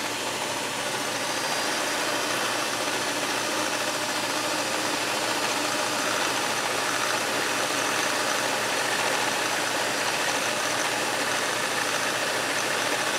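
Electric mixer running steadily, its beaters whipping heavy cream in a bowl as the cream starts to thicken.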